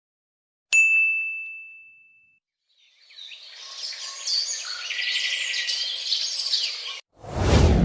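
A single bright bell-like ding that rings out and fades, then birds chirping for about four seconds, then a sudden loud whoosh with a low rumble near the end.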